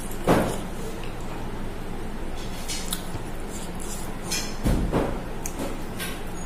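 Close eating sounds of a person eating rice by hand: chewing with short wet mouth clicks and smacks. There are two louder bursts, about half a second in and near the five-second mark.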